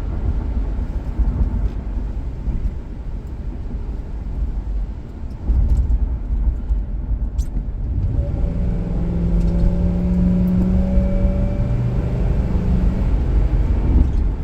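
Ford Crown Victoria's V8 engine and exhaust rumbling at part throttle, growing louder about five and a half seconds in, then settling into a steady, even-pitched drone for several seconds.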